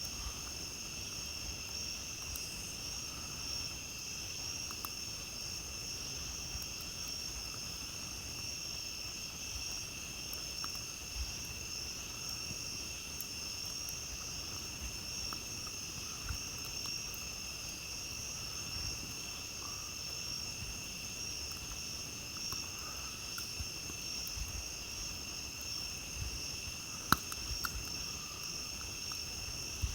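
Night-time insect chorus: a steady high trill at two pitches, without a break. It is dotted with faint campfire crackles, and one sharper pop comes near the end.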